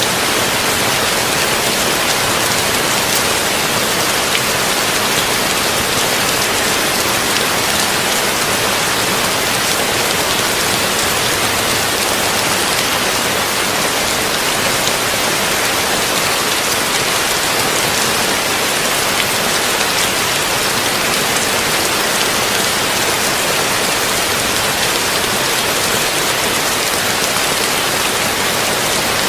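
Heavy rain falling steadily on a tin roof: an even, dense hiss of rain with faint individual drop ticks, without change in level.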